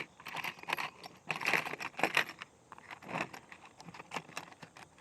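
Small steel hardware being handled and fitted: light metallic clinks, clicks and short scraping rattles, irregular and busiest in the first few seconds.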